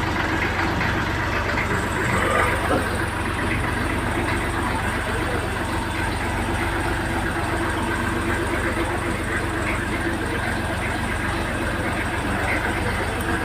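Tractor engine idling steadily with an even, unchanging low hum.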